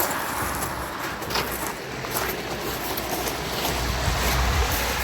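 Wind buffeting the microphone on a shingle beach over a steady rush of outdoor noise; the low rumble swells about four seconds in.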